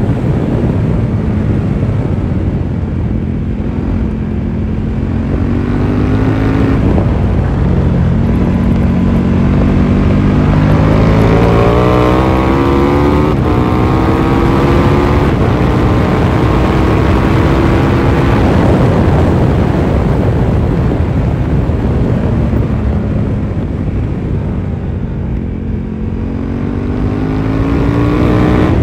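KTM 1290 Super Duke R's V-twin engine under hard riding, its pitch climbing several times as it accelerates and then falling away as it slows, over a steady rush of wind noise.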